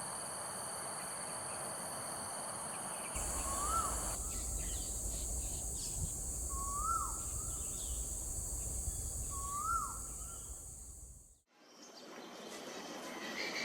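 Outdoor ambience: a steady high insect drone, then a bird calling a short whistled note that rises and falls, three times about three seconds apart, over a low wind rumble.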